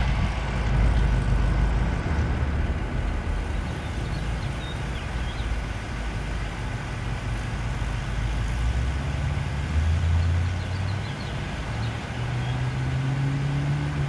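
A Cadillac's engine running with a choppy idle, then picking up speed near the end, its pitch climbing as the car pulls away.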